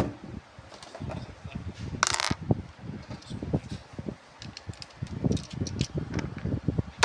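Toy locomotives being handled and worked on by hand: a run of irregular knocks, clicks and clatter, with a brief rustling scrape about two seconds in.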